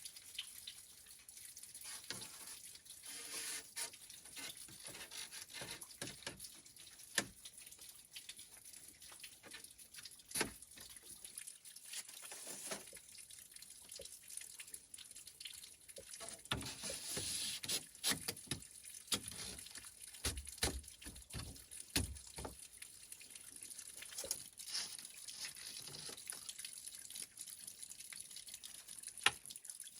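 Water dripping and trickling in a kitchen sink, with scattered irregular small clicks and knocks and a brief splashy rush midway.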